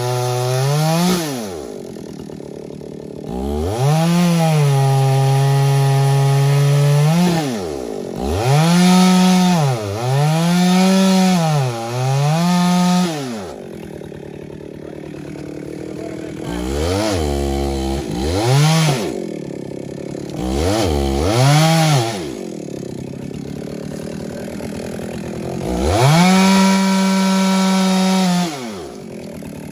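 Chainsaw revved up to full speed for cuts of one to four seconds at a time, about six times, dropping back to idle in between.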